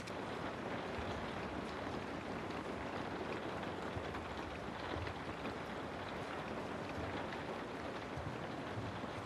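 Recorded rain ambience used as white noise: a steady hiss of rainfall with faint scattered drop ticks.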